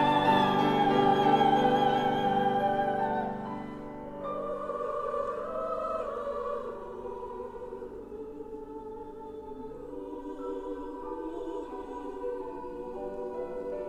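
Women's choir singing a slow choral song with piano accompaniment. The singing is loud at first and softens about three to four seconds in.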